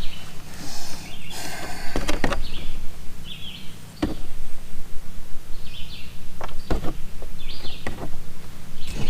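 Scattered sharp clicks and knocks, with short chirps recurring every second or two and a steady low hum underneath.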